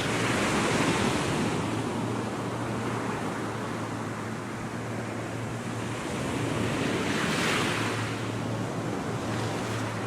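Surf washing up on a sandy beach, with two waves swelling and breaking, one at the start and another about seven seconds in.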